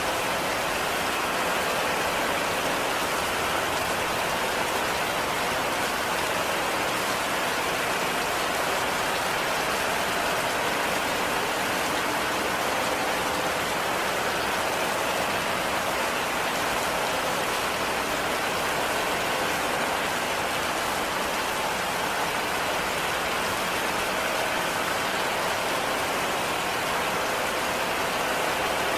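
Heavy rain falling steadily on a cabin roof: a constant, even hiss of rain with no breaks or swells.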